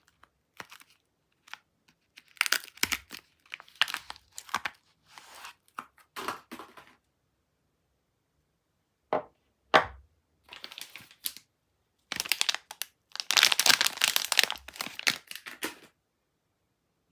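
Soap packaging being handled and opened: wrapper crinkling and tearing in irregular rustles and snaps, with a short pause about halfway through and the loudest, densest crinkling near the end.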